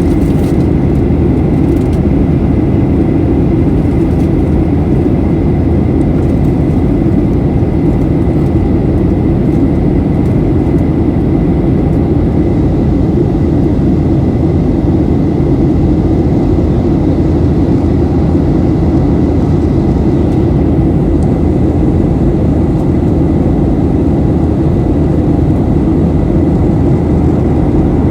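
Jet airliner cabin noise in flight: a loud, steady low rumble and rush of engines and airflow, with a faint steady high whine.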